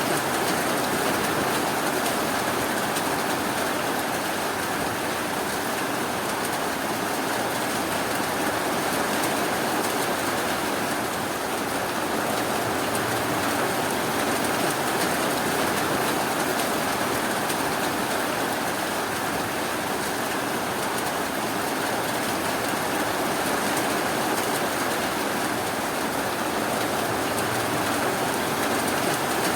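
Steady rainfall, an even hiss of rain on surfaces with no thunder or sudden sounds.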